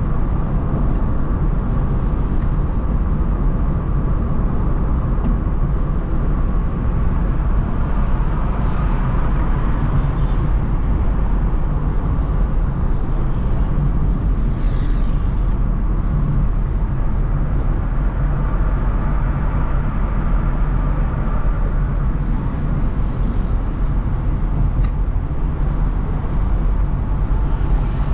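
Steady low rumble of road and engine noise from a car driving in city traffic, with a brief hiss about halfway through.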